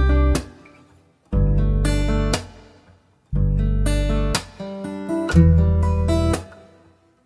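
Background music: acoustic guitar strumming chords. Each chord is held for about a second, then stopped, and a new one starts about every two seconds.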